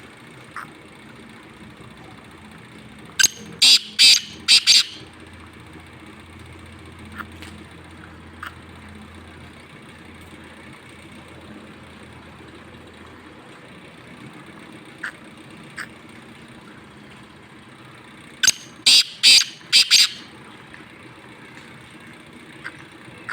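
A black francolin calls twice, about fifteen seconds apart. Each call is a rapid series of about five loud, grating notes lasting under two seconds. A faint steady hum and a few scattered clicks lie underneath.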